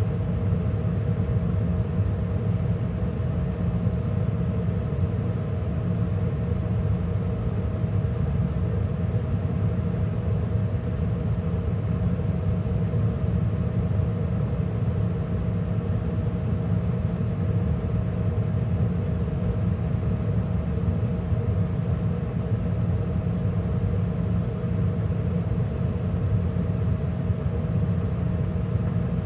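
2013 Carrier gas furnace running steadily mid-heating cycle, with the draft inducer, gas burners and circulation blower all on: a steady rumble with a constant hum.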